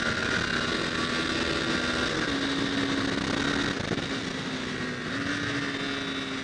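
2011 Honda CBR250R's single-cylinder engine running as the bike is ridden, with road and wind noise. The engine note holds fairly steady, steps up a little, dips around the middle and then rises again.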